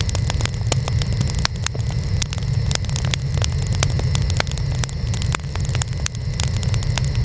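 Wood fire burning, with a steady low rumble of flames under frequent sharp, irregular crackles and pops from the burning wood.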